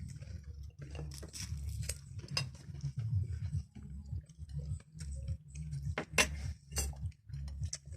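Close-up eating sounds: chewing, with scattered light clicks and clinks of tableware, two sharper clicks about six and seven seconds in.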